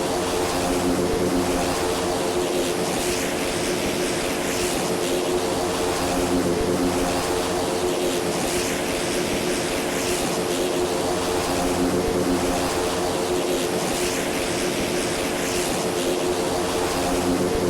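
Cessna light aircraft's piston engine and propeller running steadily: a constant even drone with a hiss of rushing air over it.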